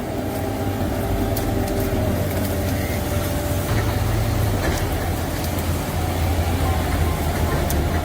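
Heavy tractor diesel engine running steadily under load, with a few short clicks over it.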